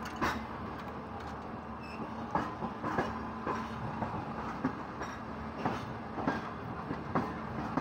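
Passenger train running on jointed track: its coach wheels clack over the rail joints at uneven intervals, about one to two a second, over a steady rumble, heard through an open coach door.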